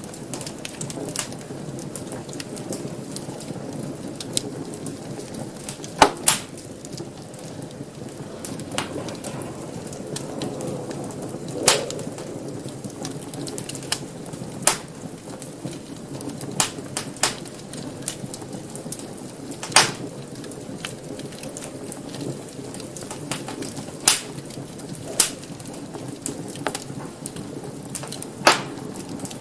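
Wood fire burning in a fireplace: a steady low rush with irregular sharp crackles and pops every second or two, the strongest about six and twelve seconds in.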